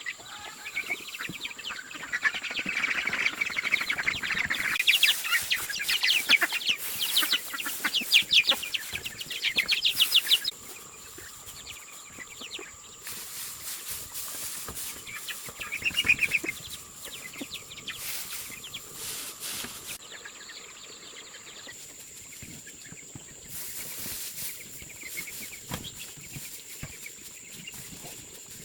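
Chickens clucking and calling in a dense chatter for about ten seconds, which stops abruptly; after that, a quieter background with one more call about sixteen seconds in.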